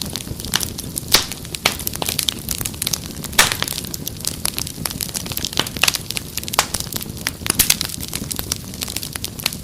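Wood fire crackling and popping, with irregular sharp snaps over a steady low rumble; one louder pop about three and a half seconds in.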